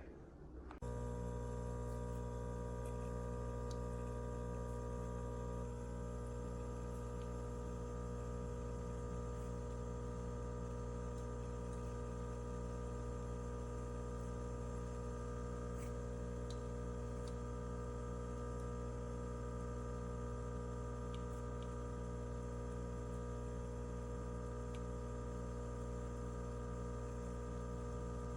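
A steady hum made of many held tones, starting about a second in and staying unchanged.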